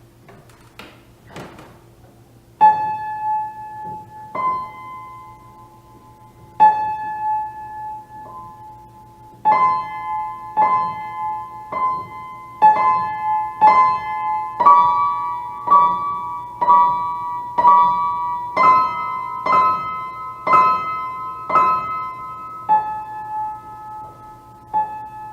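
Piano playing a slow melody of single notes, each left to ring and fade, a few seconds apart at first and then about one a second. A faint steady hum lies underneath.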